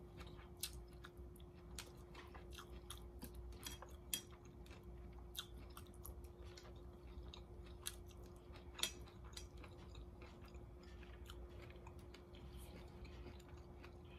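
A person chewing a mouthful of orange chicken and rice close to the microphone: small wet mouth clicks and smacks throughout, with a few sharper clicks about 4 and 9 seconds in. A faint steady hum runs underneath.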